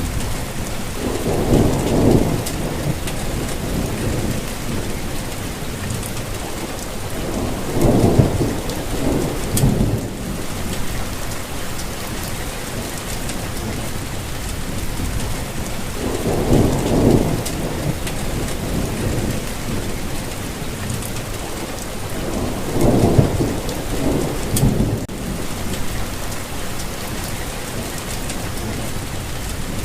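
Steady rainfall with low rumbles of thunder rising and fading about four times, every six to nine seconds.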